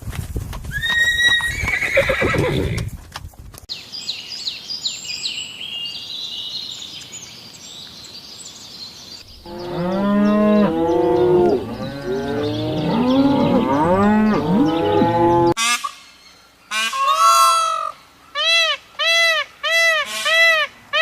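A string of different animal calls played one after another. It opens with the tail of a horse clip, then comes high, quick chirping, then a crowd of loud, overlapping calls from several animals, and near the end a single call followed by five evenly spaced calls.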